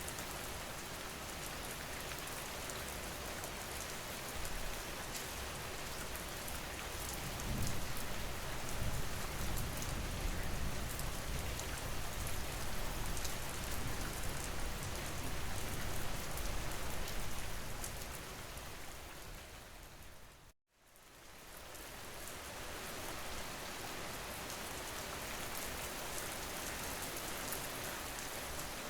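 Steady recorded rain falling, a continuous hiss of drops, with a deeper low rumble under it for about ten seconds in the middle. About two-thirds of the way through the rain fades out to silence for a moment, then comes back in.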